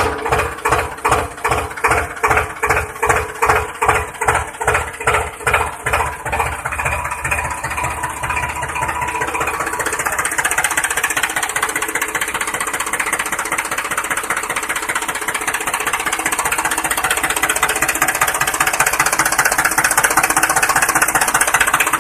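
Engine-like chugging from the DIY toy tractor: slow, regular thumps about twice a second that quicken and blend into a steady run by about the middle.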